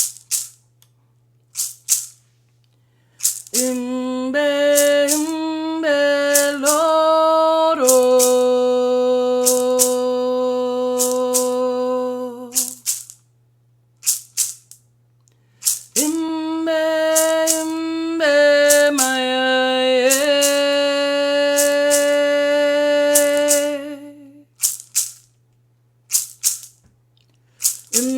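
A woman's voice sings a wordless melody in long held notes, in two phrases with a pause between, while a hand rattle is shaken in short irregular strokes.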